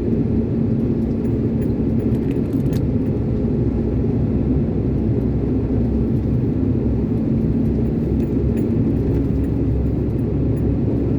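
Iveco concrete mixer lorry's diesel engine running steadily as the truck drives along, heard from inside the cab with a low road rumble.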